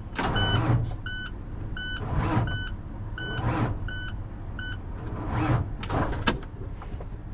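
A truck cab's electronic warning beeper sounding repeatedly, roughly every half second, then stopping a little under five seconds in, over the steady low hum of an idling diesel engine supplying a jump start to a truck that won't start. Several louder rushes of noise come and go over it.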